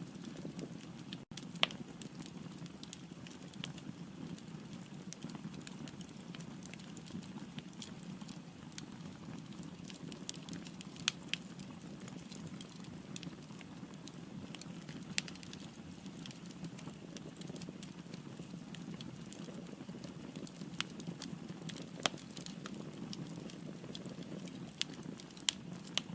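Firewood burning in a fireplace: a steady low rush of flame with scattered sharp crackles and pops, the loudest pops coming several seconds apart.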